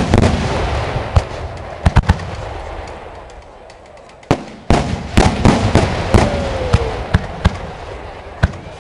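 Aerial firework shells bursting: single sharp bangs, then a dense run of bangs about halfway through, each followed by crackling that dies away.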